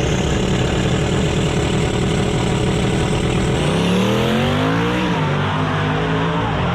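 Loud car engine running hard. About four seconds in its pitch climbs as it revs, then drops, with a high whine held steady over it.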